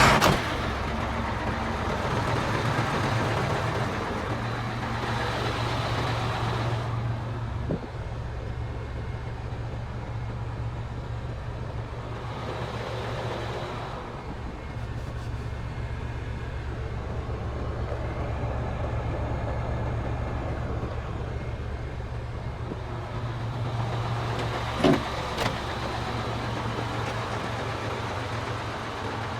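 Sinotruk HOWO dump truck's Weichai WD615 inline-six diesel running at a steady idle, with a couple of brief knocks about eight seconds in and again near the end.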